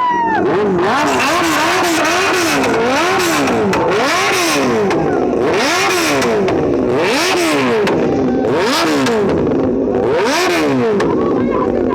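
Kawasaki Ninja ZX-10R inline-four superbike engine revved again and again, each rev rising and falling in pitch: a few quick short blips at first, then about eight bigger revs.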